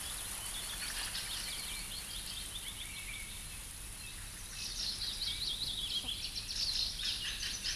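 Small birds chirping in quick runs of high calls over a faint steady hiss, in two spells, the second one louder.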